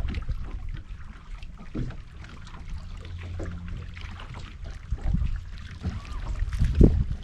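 Wind rumbling on the microphone in a fishing boat, with scattered knocks and clicks of handling on the boat and a brief low hum in the middle; the loudest thump comes near the end.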